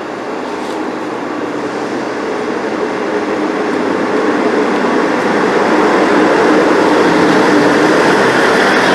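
Diesel multiple-unit passenger train running at the platform, its rumble growing steadily louder throughout.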